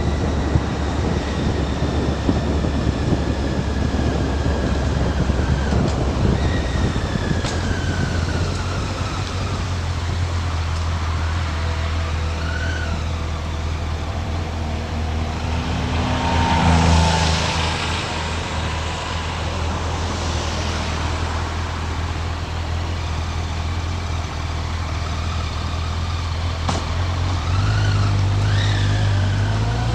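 Motorcycle engine running under way with wind noise over the microphone, its pitch falling and rising several times as the rider slows and accelerates. A louder swell of noise comes about halfway through.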